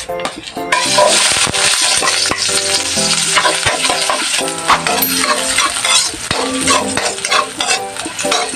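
Sliced onions sizzling loudly in hot oil in a wok, the sizzle starting suddenly a little under a second in as they hit the oil. A ladle scrapes and stirs them against the pan.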